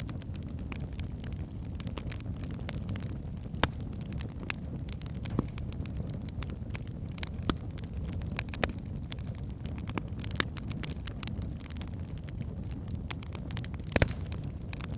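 Wood fire burning in a fireplace: a steady low rumble of flames with frequent small crackles and occasional sharper pops from the logs, the loudest pop near the end.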